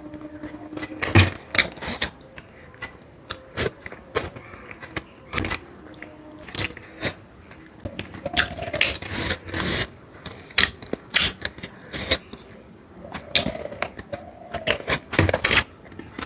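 Close-up eating sounds: chewing and lip smacking, with irregular wet clicks and smacks, a couple of louder ones about a second in and near the end, as spicy mutton curry is eaten.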